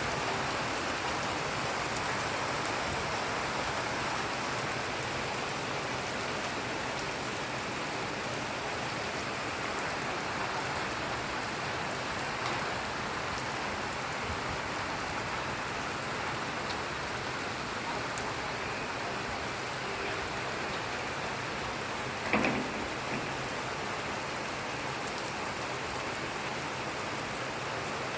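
Heavy rain falling steadily, a dense even hiss of rain on surfaces. One brief louder sound about three-quarters of the way through.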